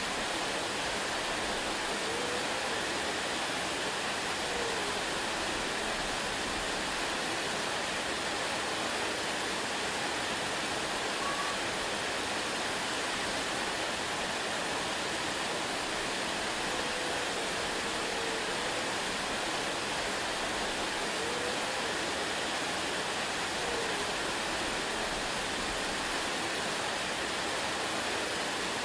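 Waterfall: steady, unbroken rush of falling water, even in level throughout.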